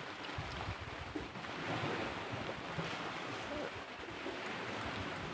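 Steady rushing background noise, with a few faint low knocks.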